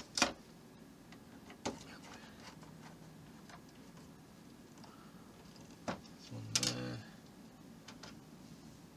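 Small clicks and knocks of plastic model parts and a tool being handled, a few separate taps, with a brief hum of a man's voice about six and a half seconds in.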